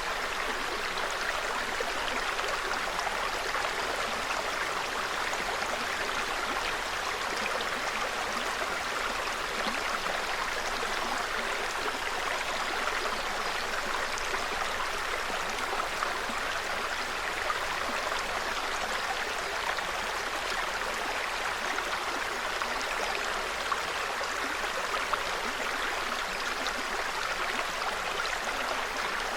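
Small forest stream (brook) flowing over stones, a steady, even rush of running water.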